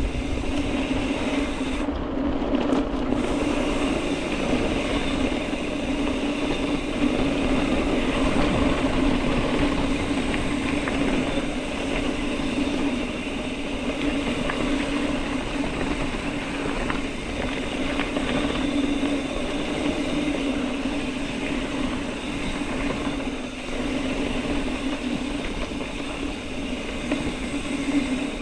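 Mountain bike rolling along a dirt trail: steady tyre and drivetrain noise with a continuous low hum and small rattles and clicks from the bike over the ground.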